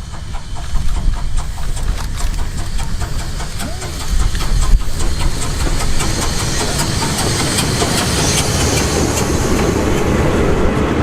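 Steam locomotive running, with a low rumble and a hiss that grows louder through the second half.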